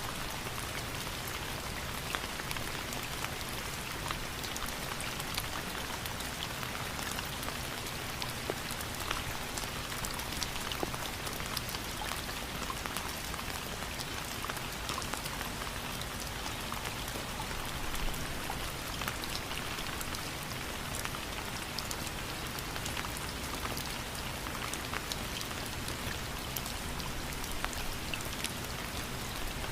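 Steady rain falling: an even, continuous hiss with many separate drop impacts ticking through it at a constant level.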